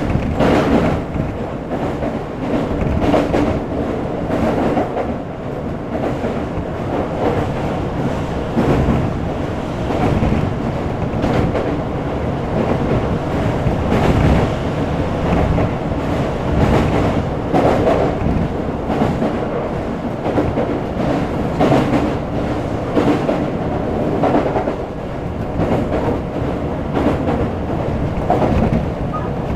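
Keisei 3400 series electric train heard from inside a car while running at speed, with a steady rumble and the clickety-clack of wheels over rail joints as it crosses river bridges.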